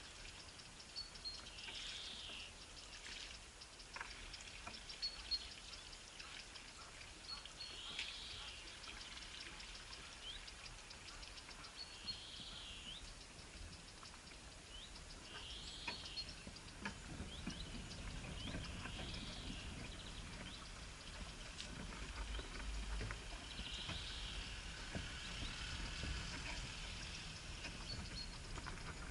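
A bird calling a short call over and over, once every four to six seconds, with faint higher chips between the calls. A low rumble grows louder in the second half.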